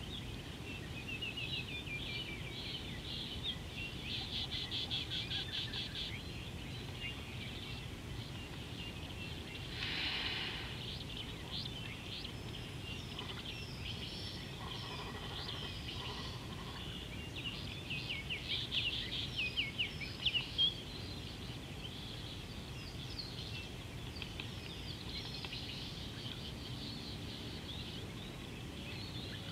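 Several small birds chirping and trilling, with one fast trill a few seconds in and sharper, louder chirps past the middle, over a steady low rumble of outdoor background noise.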